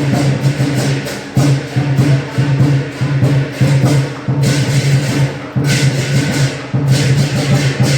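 Lion dance percussion: the big lion drum beaten in fast rolls with clashing cymbals, loud and continuous, pulsing in phrases about once a second.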